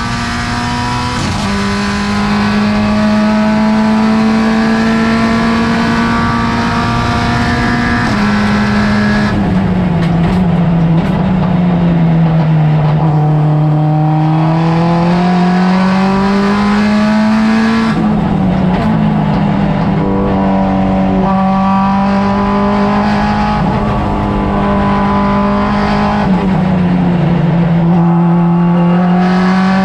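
Car engine running hard under load at track speed, with road and wind noise. Its pitch steps down sharply about a second in and again around eight seconds, then sags and climbs back twice as the car slows and accelerates.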